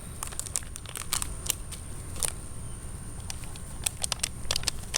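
Scattered light clicks and crackles at irregular intervals over a low rumble, with a faint steady high-pitched tone.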